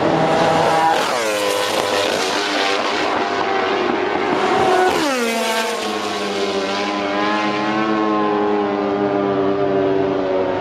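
MotoGP racing motorcycle engine at high revs, its pitch dropping sharply about a second in and again about five seconds in, then holding a steady high note.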